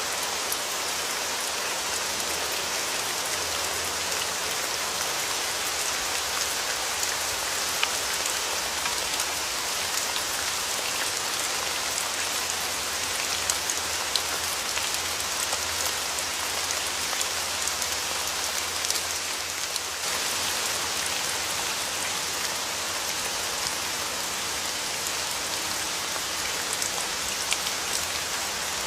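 Rain falling steadily, an even hiss with scattered sharper ticks of single drops.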